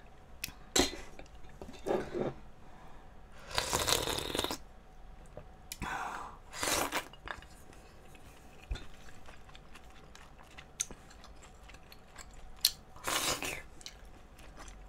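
Close-up eating sounds: a person chewing and crunching mouthfuls, heard as several short bursts spaced a second or more apart with quiet gaps between.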